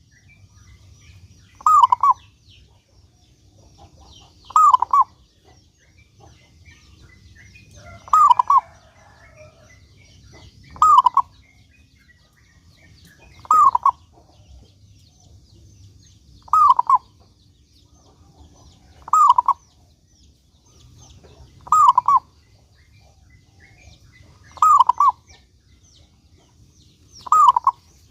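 Zebra dove (perkutut) singing, a short phrase of a few cooing notes repeated ten times, about every two and a half to three seconds. Faint higher chirps sound between the phrases.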